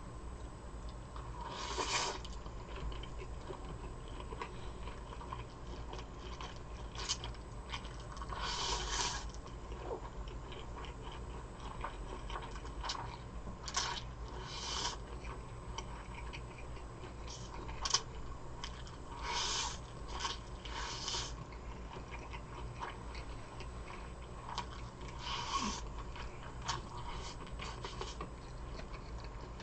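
A person eating close to the microphone: short, scattered bursts of chewing and biting, about ten over the stretch, over a steady low hum.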